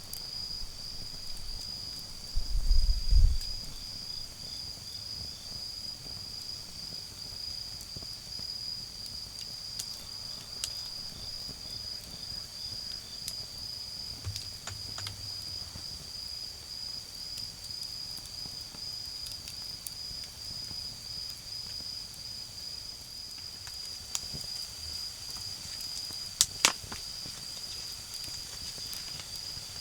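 Autumn insects calling: one trills steadily at a high pitch while another chirps in short runs, over a wood fire that gives a few sharp crackles and pops. A brief low rumble comes about two to three seconds in.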